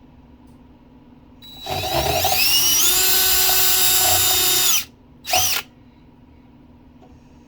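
Power drill spinning up with a rising whine, running steadily for about three seconds, then a short second burst.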